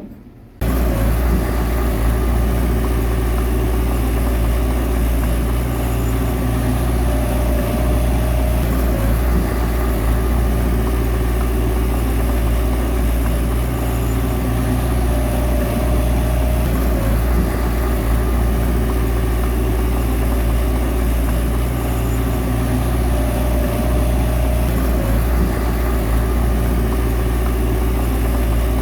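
Bulldozer's diesel engine running steadily, cutting in about half a second in. A higher tone swells over it three times, about eight seconds apart.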